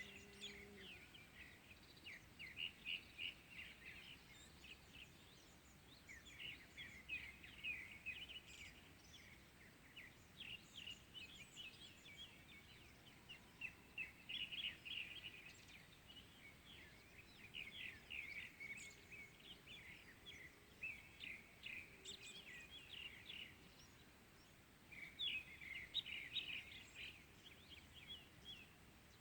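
Small songbirds chirping in bouts of quick, short notes, each run lasting a few seconds with brief pauses between, over a faint outdoor hush of a spring morning.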